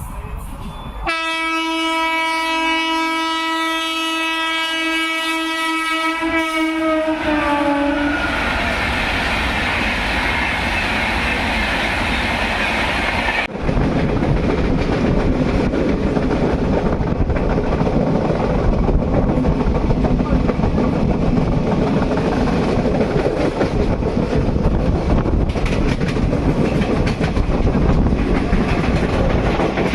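An Indian Railways electric locomotive's horn sounds one long steady blast for about seven seconds, its pitch sliding down at the end as the train goes by. Then the loud rush and clickety-clack of a fast passing train, which gets suddenly louder about halfway through.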